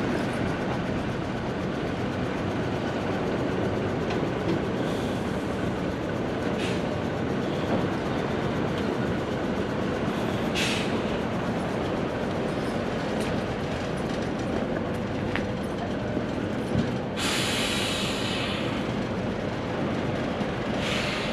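A heavy diesel military truck running steadily close by, a dense continuous rumble, with a short hiss about seventeen seconds in.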